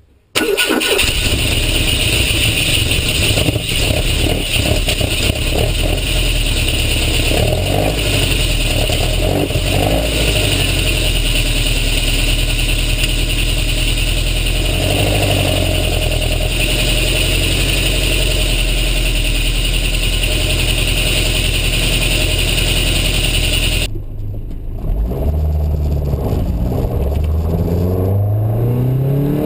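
Matra Murena 2.2's four-cylinder engine, fitted with a Piper 3777 camshaft, running steadily with a strong hiss over it. About 24 seconds in the sound changes abruptly and becomes less hissy, and the revs rise in pitch several times as the car accelerates.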